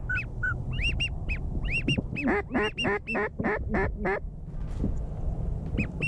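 Waterfowl calling: short, high, arched goose-like notes repeated throughout, and in the middle a run of about seven louder quacks. A steady low rumble lies underneath.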